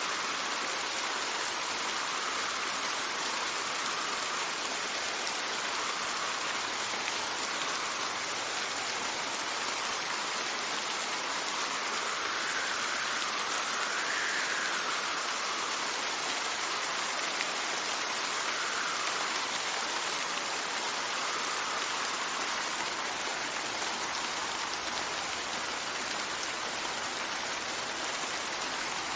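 Steady rain hissing, with gusts of wind that rise and fall in pitch every few seconds, the strongest gust about halfway through.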